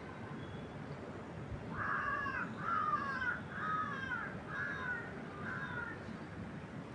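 A bird giving a run of about six calls from about two seconds in, each call arching up and down in pitch, over a steady hiss of wind moving through trees.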